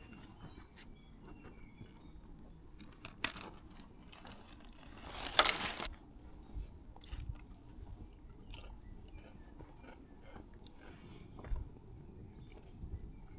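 Someone chewing and crunching food: scattered small clicks, with one louder crunching rustle about five seconds in.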